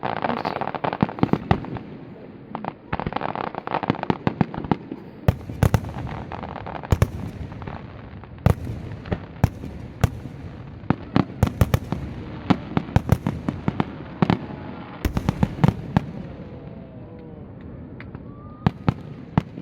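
Aerial fireworks bursting in rapid succession: dozens of sharp bangs, some in dense crackling clusters, over a steady background hubbub.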